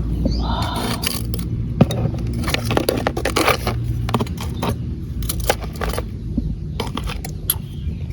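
Irregular sharp clicks, knocks and scraping of hard shells being handled, with a steady low hum underneath: African land snails being picked up and gathered.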